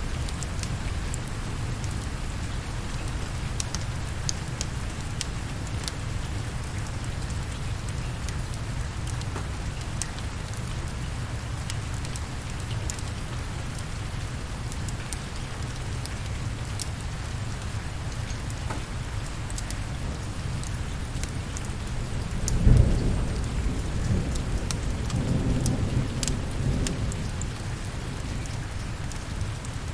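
Steady rain with scattered sharp clicks, and a clap of thunder about three quarters of the way through that starts suddenly and rumbles on for about four seconds.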